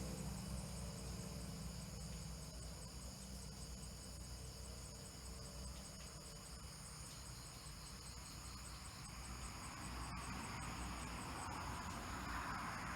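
Steady high-pitched insect chorus, a continuous fast-pulsing trill, over a low rumble; a soft hiss swells near the end.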